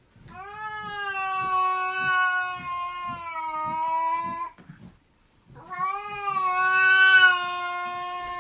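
A cat giving two long, drawn-out yowls at a steady pitch, the second starting after a short break about halfway through.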